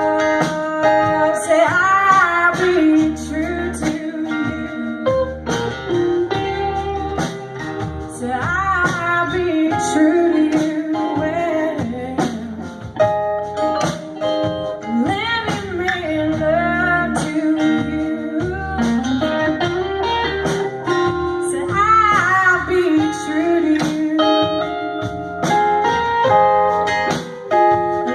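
Live blues song: a voice singing over guitar with a band.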